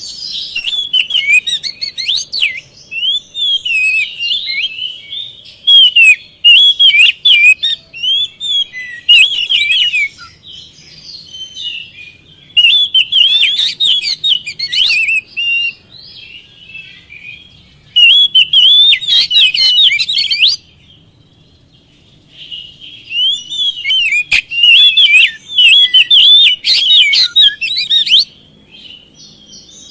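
Oriental magpie-robin (kacer) singing loud, rapid, varied phrases of whistles mixed with sharp clicking notes, in bursts with short pauses between, the longest pause about 21 seconds in.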